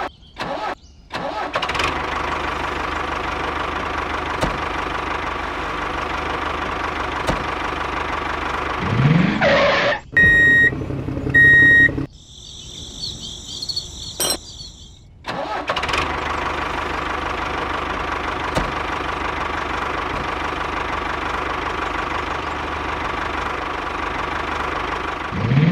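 Miniature DIY walking tractor running with a steady engine-like drone. About ten seconds in it breaks off for two short high beeps and a few seconds of a quieter, different sound effect, then the drone runs again, with a rising glide just before each change.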